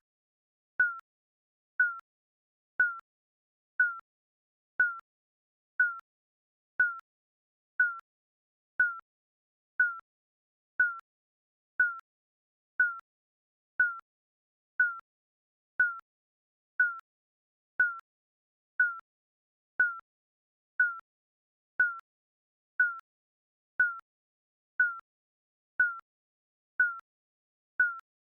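Digital countdown timer beeping once a second: short, high electronic beeps, evenly spaced, each dipping slightly in pitch.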